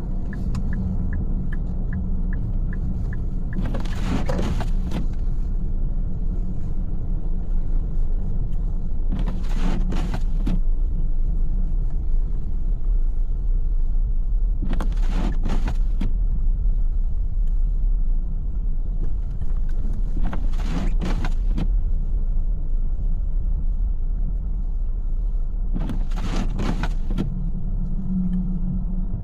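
Steady low rumble of a car driving, heard from inside, with a short swish about every five to six seconds.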